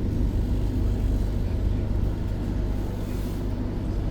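Electric tram running, a steady low rumble heard from inside the passenger cabin.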